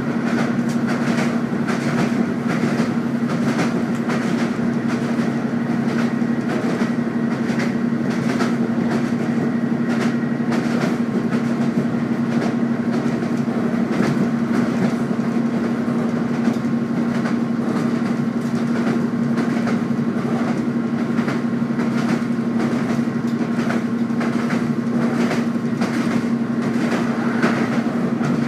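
Running noise heard inside a diesel passenger train carriage at speed: a steady hum over a continuous rumble, broken by frequent irregular clicks of the wheels over the rails.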